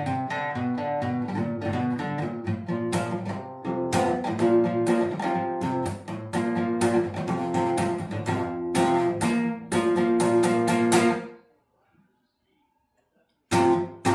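Acoustic guitar strummed in a steady rhythm of chords. The strumming stops about eleven seconds in and starts again after a short pause near the end.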